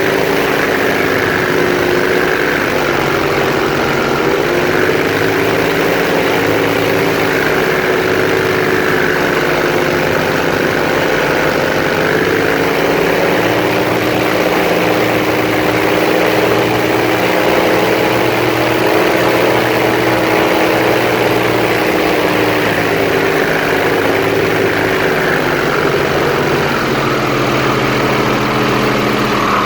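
Airboat engine and propeller running steadily under way, its pitch drifting slightly up and down as the throttle changes.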